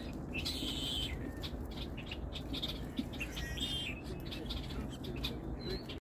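Small birds chirping in short calls, a few times, over a steady low background rumble.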